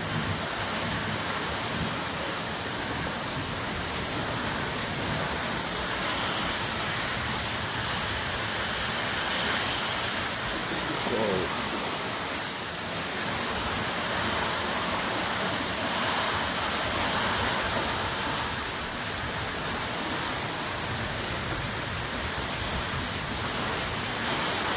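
Heavy rain falling steadily, a constant rushing hiss, with runoff from an overflowing gutter pouring off the roof edge and splashing into a rain barrel.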